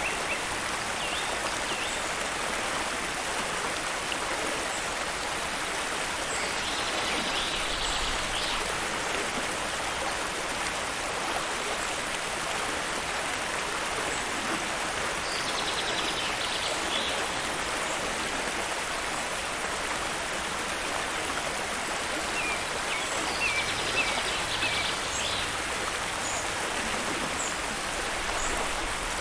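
Steady rushing of a flowing stream, with a few short high bird calls over it.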